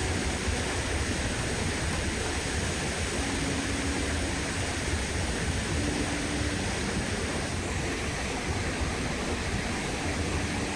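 Waterfall rushing: a steady, even noise of falling water with a strong low rumble.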